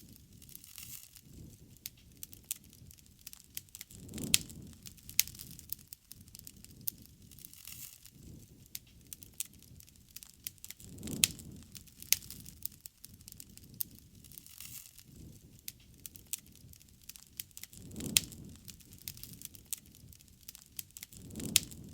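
Wood fire crackling, with frequent sharp pops and snaps. Under it, a low, soft rushing sound swells and fades four times, about every seven seconds.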